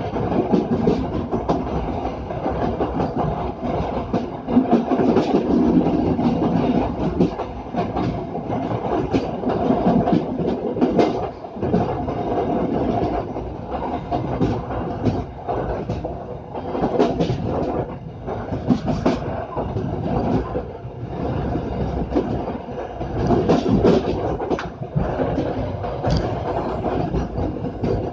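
Passenger train running along the line, heard on board from the rear car: a steady rumble of wheels on rail with repeated clacks over the rail joints, loudness rising and falling.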